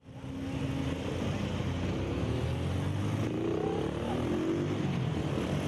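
Motorcycle engine running steadily, cutting in abruptly.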